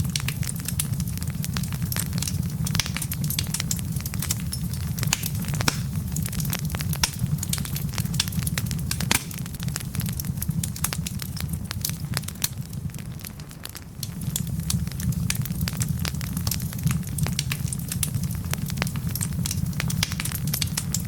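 Wood fire in a fireplace crackling, with frequent sharp pops and snaps from the burning logs over a steady low rumble of flame. The rumble dips briefly about two-thirds of the way through, then returns.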